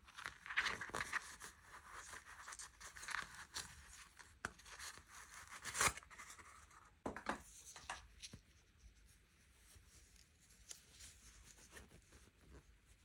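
Sweet or toy packaging handled and torn open, with rustling over the first half, a few sharp clicks near the middle, then softer handling.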